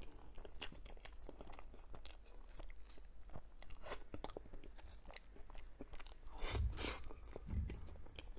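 Close-miked chewing and wet mouth smacks of someone eating soft layered matcha crepe cake, a quick series of small clicks. The sounds grow louder, with a few low thumps, about two-thirds of the way in.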